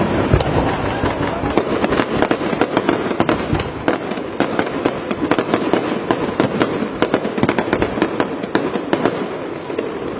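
Firecrackers going off in a dense, irregular crackle of sharp bangs.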